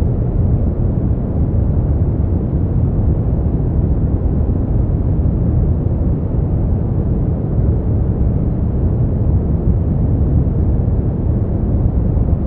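Steady synthetic noise made as a sleep aid: an even, deep rush with most of its weight low down and no change at all.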